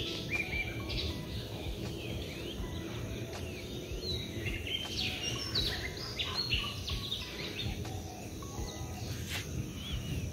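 Several small birds chirping and calling, many short notes sweeping up and down in pitch, busiest in the middle, over steady low outdoor background noise.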